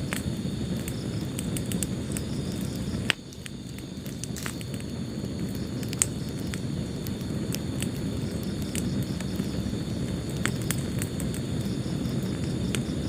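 Wood fire burning in a fireplace: a steady low rumble with scattered crackles and pops, the sharpest pop about three seconds in and another about six seconds in.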